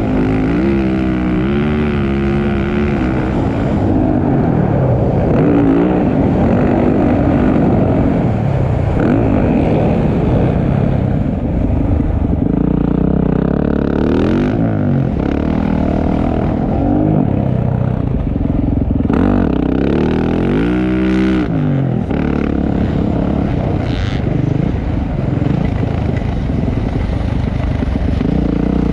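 Motocross dirt bikes racing, engines revving up and down as the riders accelerate and back off, with several quick rising-and-falling pitch sweeps over a loud, continuous engine noise.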